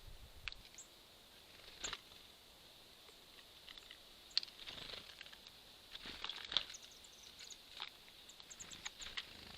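Faint, scattered short chirps and ticks of small songbirds, with a few sharp clicks, against quiet outdoor ambience.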